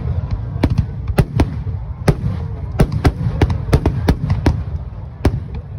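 Fireworks display: aerial shells bursting in a rapid irregular series, about two to three sharp bangs a second, over a continuous low rumble.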